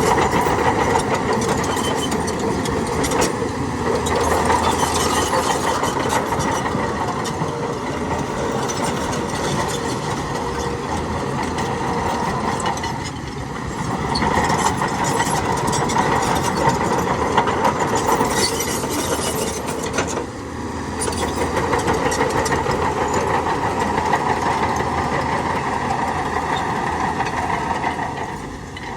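Heavy diesel earthmoving machinery running steadily under load, its engine dipping briefly a few times.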